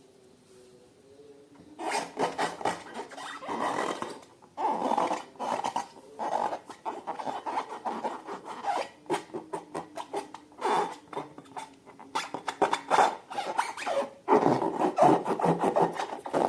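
Slime being squeezed and stirred by hand: a dense run of sticky clicks and crackles that starts about two seconds in and keeps on in uneven bursts.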